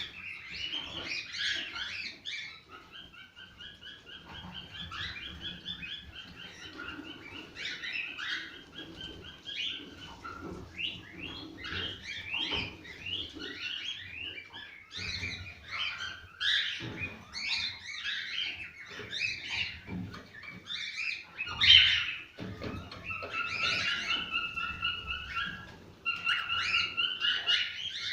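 Cockatiels singing and chirping, with runs of quick repeated whistled notes and sharper chirps among them: cockatiel song of the kind used to stimulate breeding.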